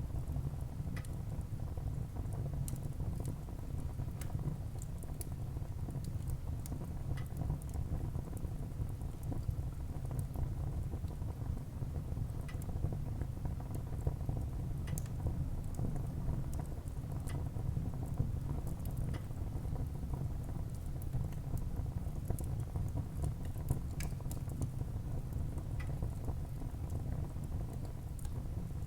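Wood fire burning in a fireplace: a steady low rumble of flames with frequent scattered crackles and pops of the burning wood.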